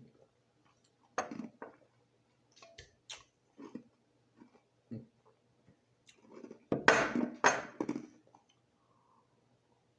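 Crushed ice being crunched between the teeth in scattered bites, with the loudest run of crunches a little past the middle.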